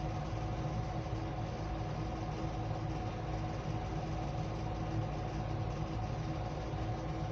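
Ceiling fan running slowly after being turned down from full speed: a steady motor hum with two faint held tones.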